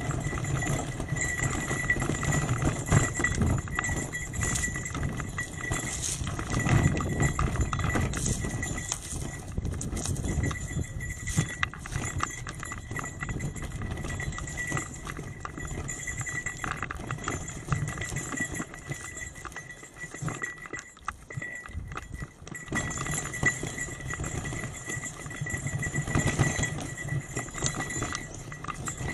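Trek 8.3 DS bicycle ridden over a rough forest road: tyres crunching and the bike rattling with many small knocks, over a low wind rumble on the microphone. It quietens briefly about two-thirds of the way through.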